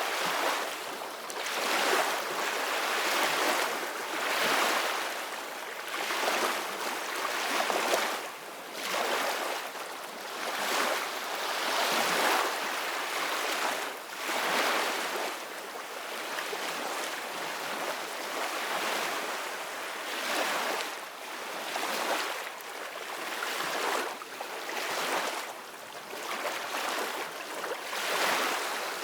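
Ocean waves breaking on a shore: a steady wash of surf that swells and ebbs in irregular surges every couple of seconds.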